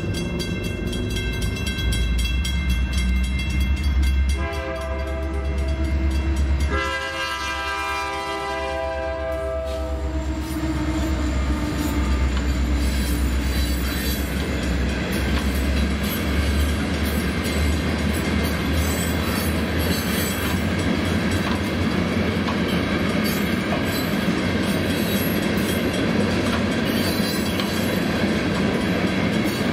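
Freight locomotive air horn sounding over the first ten seconds, the last blast dropping in pitch as it passes, then a long string of hopper cars rolling by with steady wheel rumble and clatter.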